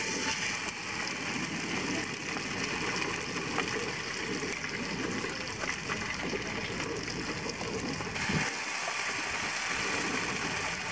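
Patties frying in oil on a flat pan over a portable stove, a steady hiss of sizzling.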